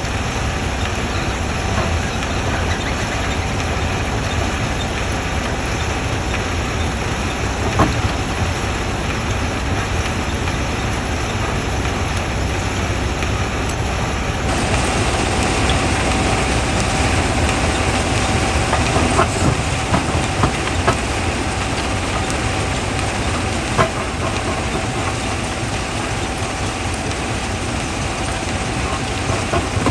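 Quarry primary jaw crusher running under load: a steady heavy rumble with a constant hum and occasional sharp knocks of rock, a little louder and brighter about halfway through.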